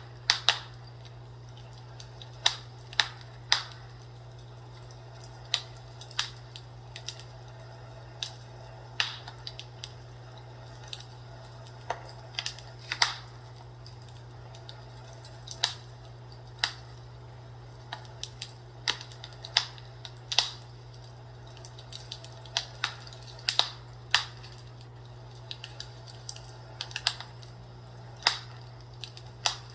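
Fireplace crackling: irregular sharp pops and snaps, a few louder than the rest, over a steady low hum.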